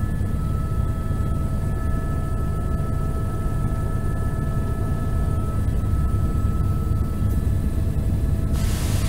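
Helicopter running: a steady low rumble with thin, steady high whining tones over it. Near the end a brighter hiss comes in.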